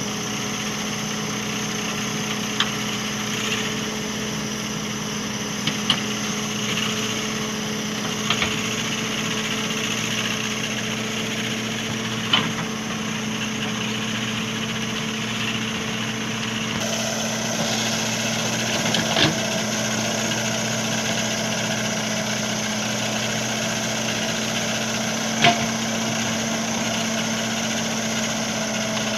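JCB backhoe loader's diesel engine running at a steady speed, with a few short sharp clanks scattered through.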